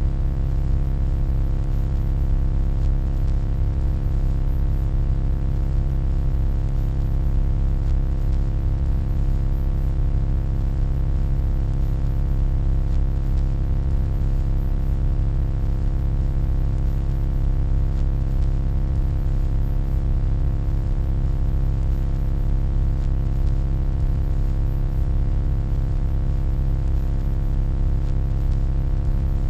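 Steady electronic hum: a deep drone with several steady tones layered above it and a faint hiss on top, unchanging throughout.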